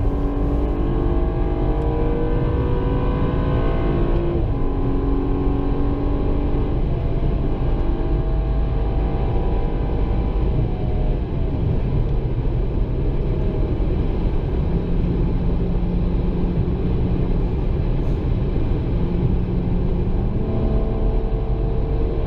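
BMW M235i's 3.0-litre turbocharged straight-six engine and exhaust running under way, its pitch stepping down twice early on as it changes gear, then falling, holding low and stepping up again near the end, over a steady low rumble.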